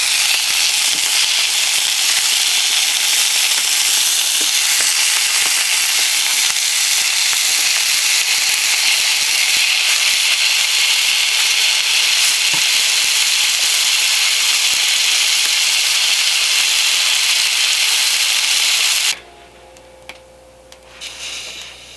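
Cheddar bratwurst frying, a steady loud sizzle that cuts off abruptly near the end.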